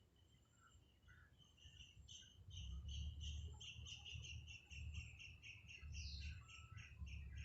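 Nestling bird begging with a quick, even train of short high chirps, about five a second, building up from about a second and a half in. A low rumble runs underneath.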